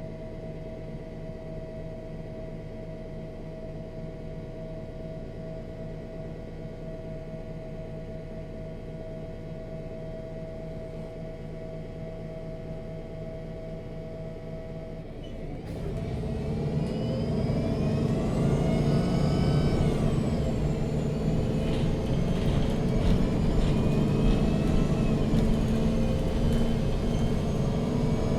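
MAN NG 313 CNG articulated bus heard from on board, its gas engine idling steadily at a stop, then pulling away a little past halfway. It accelerates with a rising drivetrain whine that drops back with a gear change and climbs again.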